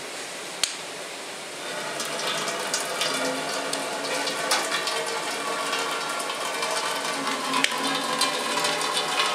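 Hot maple syrup pouring from an evaporator's draw-off valve into a container, drawn off at 219 degrees. A steady pouring that grows louder about two seconds in, with scattered clicks.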